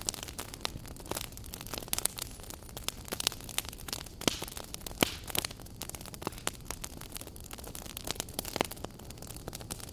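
Wood fire burning in a fireplace: irregular sharp crackles and pops, many a second, over a steady low rumble of the flames.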